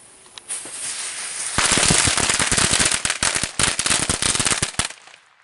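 A 100-shot nitrate firecracker mat going off. A fuse hisses for about a second, then the small crackers bang in a rapid, dense string for about three seconds and stop abruptly.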